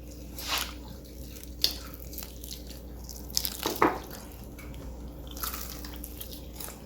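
Crunchy bites and chewing of fried chicken close to the microphone: a handful of short, sharp crackles, the loudest a little under four seconds in.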